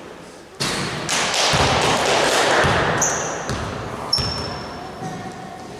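Basketballs bouncing on a gym floor and sneakers squeaking, with short high squeaks about three and four seconds in, over a loud wash of noise in the first half.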